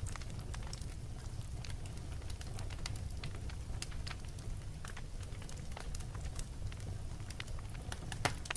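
Wood fire burning in a fireplace: irregular crackles and pops over a steady low rumble of the flames, with one louder pop near the end.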